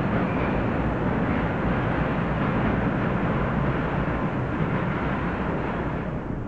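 Freight train running on the tracks: a steady rumble and rolling noise that eases off slightly near the end.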